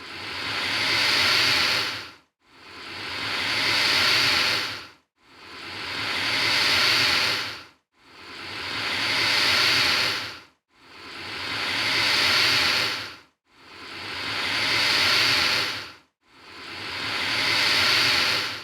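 Alligator hissing: seven alike breathy hisses, one about every 2.7 seconds. Each swells and then fades, with a short silent gap between, so it sounds like the same hiss repeating.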